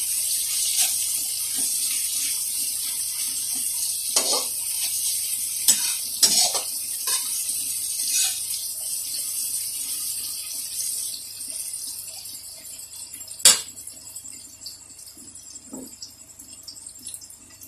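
Chopped onion, tomato and capsicum sizzling in oil in a pan, with a metal spoon scraping and clinking against the pan as they are stirred. The sizzle fades gradually, and there is one sharp clack near the end.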